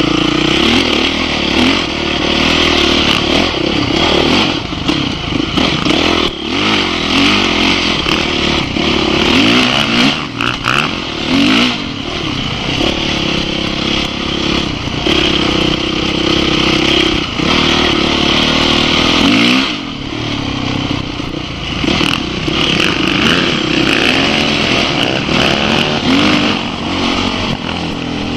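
Off-road motorcycle engine heard from on board the moving bike, its pitch rising and falling with the throttle as it rides a rough dirt trail. It eases off briefly about twenty seconds in.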